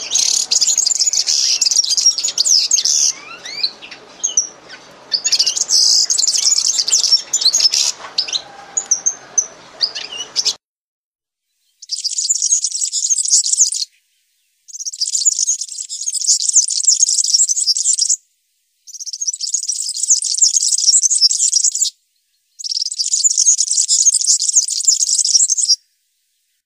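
Many small birds chirping and twittering together in a dense, high-pitched chorus. About ten seconds in it cuts out, then returns in four separate stretches, each starting and stopping abruptly.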